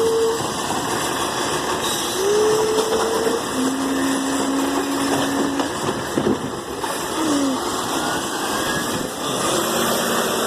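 Garbage truck running with a loud, steady rumble, overlaid by several short whining tones of a second or two each that step and glide in pitch.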